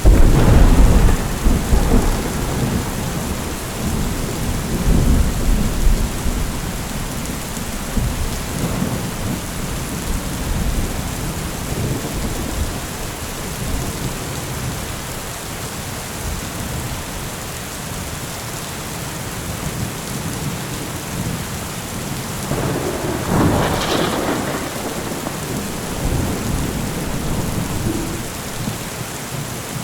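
Thunderstorm: steady rain falling, with a loud clap of thunder right at the start that rolls on for several seconds, and a second, sharper crack of thunder about three-quarters of the way through.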